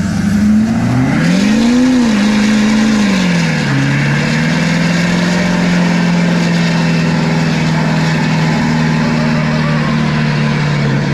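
Car engine revved up, briefly rising and falling, then held at steady high revs for several seconds under a loud hiss of spinning tyres: a burnout.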